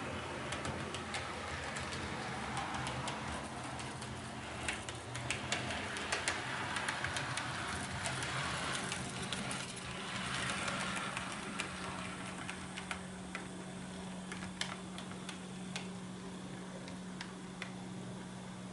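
HO-scale model train running on the layout track: a steady motor hum under many irregular sharp clicks of wheels passing over rail joints and points, the clicking thickest in the middle and thinning out toward the end.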